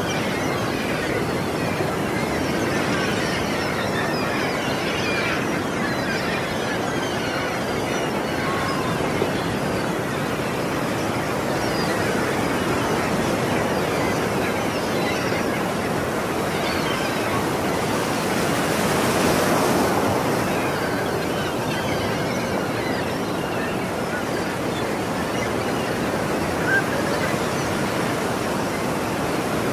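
Ocean surf washing onto a shore, a steady rush of breaking waves, with one wave swelling louder about two-thirds of the way through.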